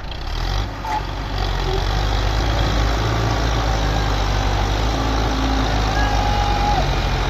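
Belarus tractor's diesel engine running steadily.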